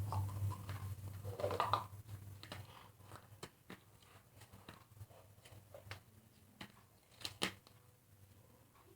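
Scattered light clicks and taps of small objects being handled, with a brief low hum and rustle in the first two seconds and one sharper click about seven seconds in.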